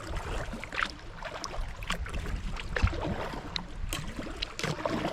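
A kayak being paddled through shallow river water: paddle strokes splashing and dripping about once a second over a steady wash of moving water.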